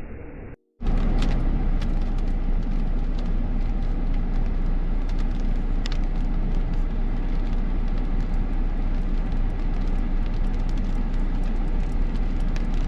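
Strong thunderstorm wind buffeting a car, heard from inside as a loud, steady rushing with a heavy low rumble and scattered sharp ticks against the body. It starts abruptly just under a second in.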